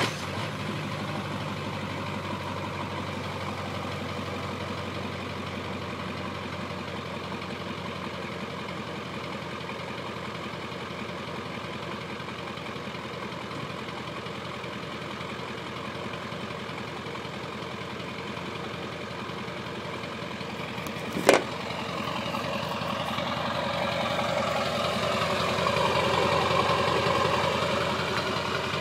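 Ford 7.3 Powerstroke turbo-diesel V8 idling on a cold start, a steady rhythmic diesel clatter. A single sharp click about 21 seconds in, after which the engine sound grows louder for several seconds and then eases slightly.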